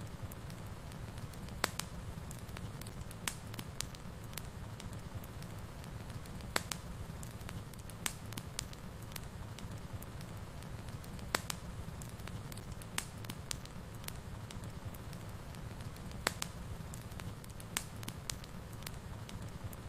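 Wood fire burning in a fireplace: a steady low rumble with sharp, irregular crackles and pops.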